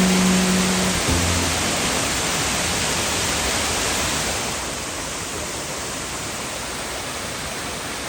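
Steady rushing of water from a small waterfall, an even hiss, dropping a little in level about halfway through. A few low music notes sound over it in the first second.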